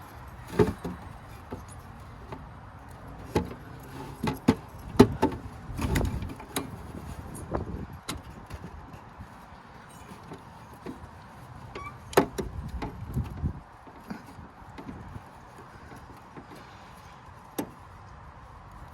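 Scattered metal clicks, clinks and knocks of hands and parts being worked on a garden tractor, as its drive belt is fitted onto the pulleys, at irregular intervals with longer gaps between them.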